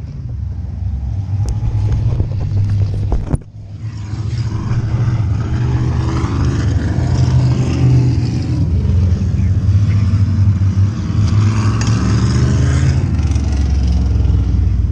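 Sprint car engine running, heard through the car-mounted camera, with a sudden break a little over three seconds in. After the break a steady low engine rumble carries on.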